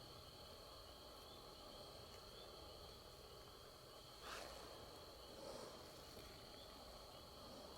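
Faint, steady night chorus of insects, a thin continuous high trill with softer repeated chirps beneath it. A brief rustle sounds about four seconds in, and a softer one a second later.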